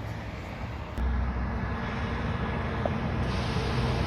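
A heavy truck's diesel engine running with road noise as it approaches, growing louder toward the end, with a sudden jump in level about a second in.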